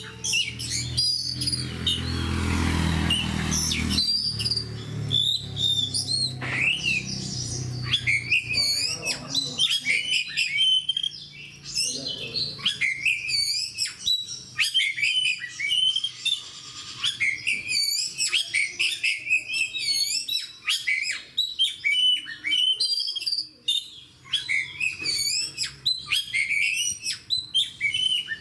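Oriental magpie-robin singing continuously in quick, varied whistled phrases, in full aggressive song. A low rumbling noise sits under the song in the first few seconds.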